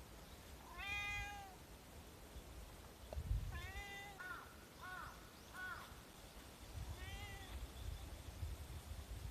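Tabby calico cat meowing: three longer meows a few seconds apart, with a quick run of three short chirp-like meows between the second and third.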